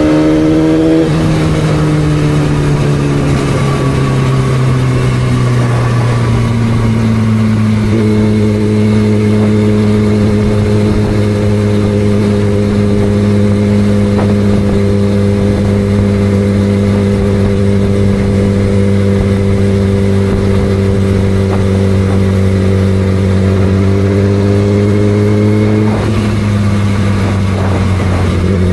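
2006 Yamaha R6's 600 cc inline-four engine, with the revs falling over the first several seconds and then held steady for a long stretch. The pitch dips again near the end.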